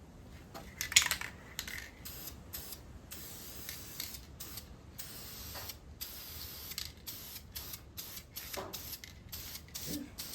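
Aerosol spray-paint can hissing in a series of bursts, some brief and some held for a second or more, with short gaps between them as blue paint is sprayed on.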